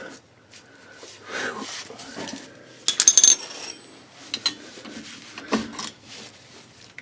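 Wrench clinking and scraping on the steel U-joint bolts of a drive shaft as they are worked loose, with a short cluster of bright, ringing metal clinks about three seconds in.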